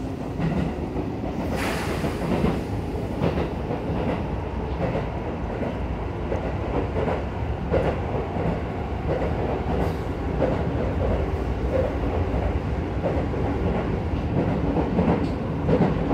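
Cabin noise of a local commuter train running along the line: a steady low rumble of wheels on rail with occasional short clicks and knocks.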